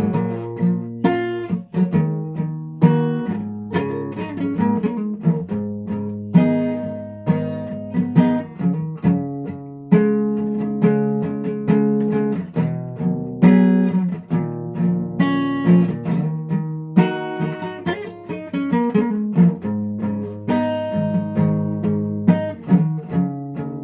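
A guitar being played: chords and single notes struck one after another, each left to ring and fade before the next.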